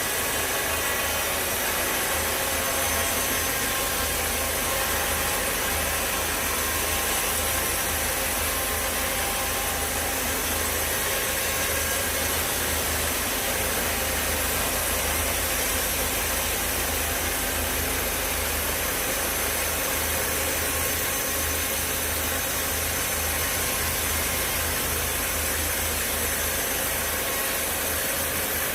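Sawmill machinery running steadily: a constant mechanical drone with a low rumble and a high, even whine, holding unchanged throughout.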